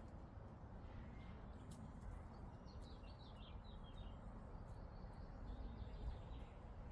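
Quiet meadow ambience: a low steady rumble under a small bird's short burst of chirping about three seconds in, with fainter chirps later on.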